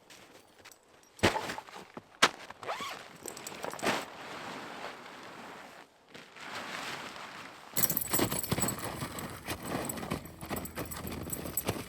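Camping gear being handled while a tent is set up: two sharp knocks, then irregular rustling, turning into a denser, busier rustling and scraping from about eight seconds in.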